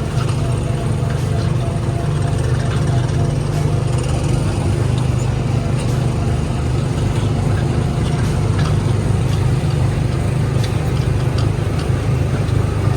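Small gasoline engine of a Tomorrowland Speedway car running steadily as the car drives along the track.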